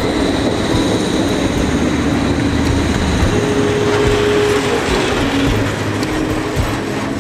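Freight train of loaded open coal wagons rolling past on the rails, a steady loud rush of wheels and wagons.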